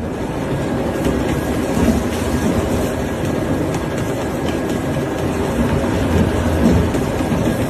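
Steady, loud rumbling noise of a moving vehicle, starting abruptly.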